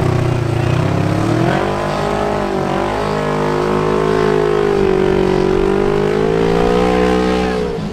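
Off-road vehicle engine running at high revs. Its pitch climbs about a second and a half in, holds high with a slow waver, and eases off near the end.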